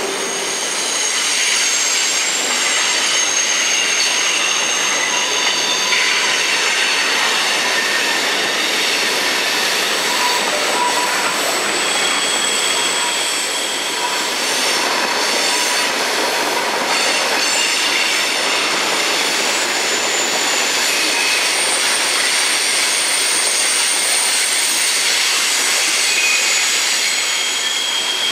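Freight train cars rolling past, the wheels on the rails making a steady, continuous noise with several high squealing tones that come and go.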